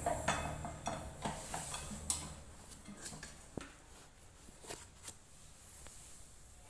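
Scattered metallic clinks and knocks of tools and machine parts being handled, several close together in the first two seconds, then sparser.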